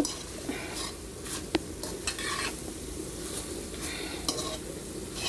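Seasoned beef for pepper steak sizzling as it browns in a pot without oil, at the first cook down. A spoon scrapes and clinks against the pot a few times.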